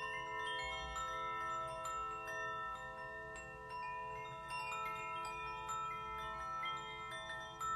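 Bells and chimes ringing in many overlapping, long-sustained tones, with new notes struck every second or so, over a faint low rush of a stream.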